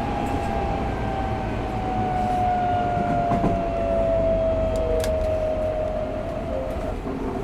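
Tokyo Metro 05 series train heard from inside the car: steady running rumble under the whine of its Mitsubishi IGBT inverter-driven traction motors. The whine glides steadily down in pitch as the train slows. A few sharp clicks can be heard from the running gear.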